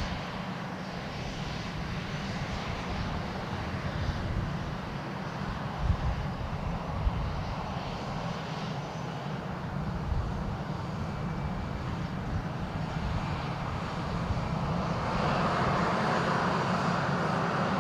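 Jet airliner's engines at takeoff power, a steady rumble and roar that grows louder near the end.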